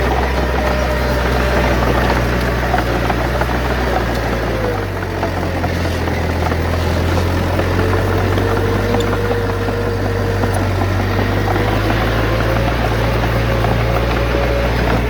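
Diesel engine of heavy earthmoving machinery running steadily with a deep drone that drops in pitch about a third of the way in and shifts back near the end. A faint wavering whine runs above it.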